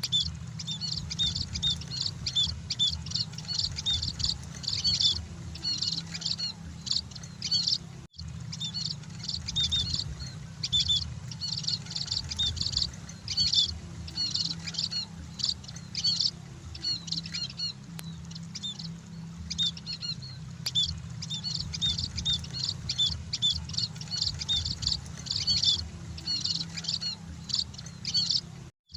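Munias (emprit, Lonchura finches) chirping in a rapid, continuous run of short high calls over a steady low hum. The calls break off for a moment about eight seconds in and again near the end.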